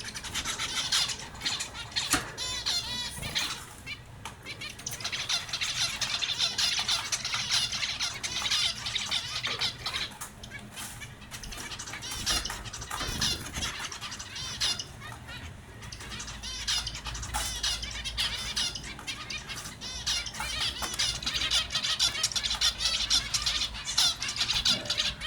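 A flock of small finches chirping busily, many rapid high calls overlapping, with scattered short clicks and flutters among them.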